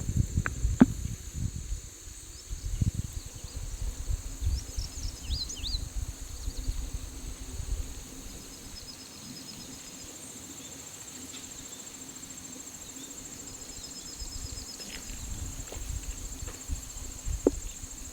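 Insects trill steadily in a high buzz, with short pulsed trills now and then. Gusts of wind rumble on the microphone through the first half and pick up again near the end.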